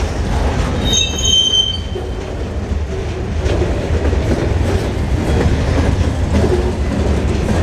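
Freight train rolling past with a steady heavy low rumble, and a brief high-pitched wheel squeal about a second in.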